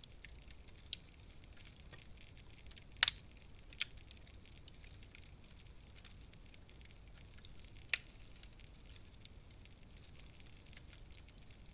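Wood fire burning in a fireplace: a soft steady hiss with scattered sharp crackles and pops, the loudest a double pop about three seconds in and another near eight seconds.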